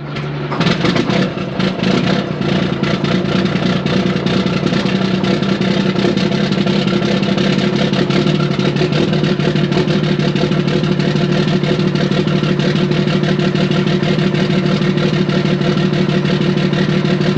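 Grain truck engine running loudly at a steady speed with its exhaust pipe off, so it runs straight-piped.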